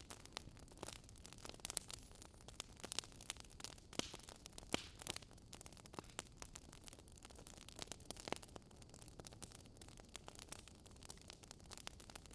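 Wood fire crackling: faint, irregular sharp pops and snaps over a low steady hiss.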